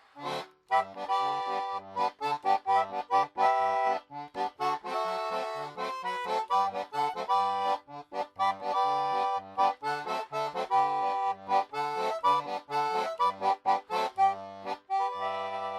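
German concertina playing a lively tune in rhythmic chords over short bass notes, closing on a long held final chord near the end.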